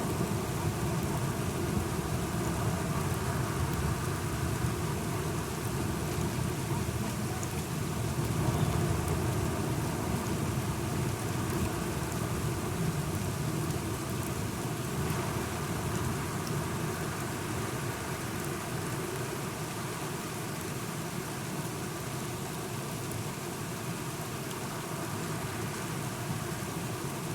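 Steady rain falling, with a low rumble of thunder that is strongest in the first half and fades away toward the end.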